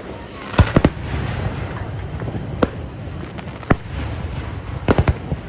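Aerial fireworks exploding: sharp bangs over a continuous rumble, a pair about half a second in, single bangs in the middle, and a quick run of three near the end.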